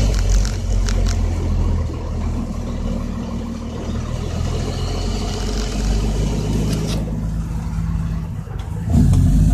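Loaded dump truck's Caterpillar C10 inline-six diesel running with a steady low drone, growing suddenly louder about nine seconds in.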